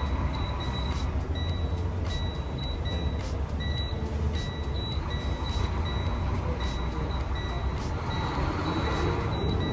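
Semi-truck's diesel engine idling, a steady low rumble, with short high-pitched beeps repeating irregularly over it.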